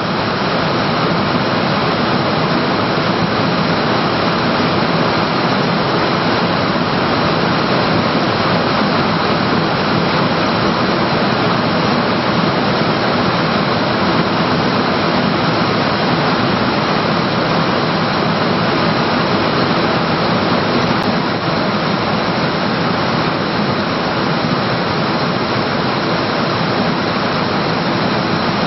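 Jet airliner's engines running: a loud, steady, even rush of noise with a faint high whine, unchanging throughout.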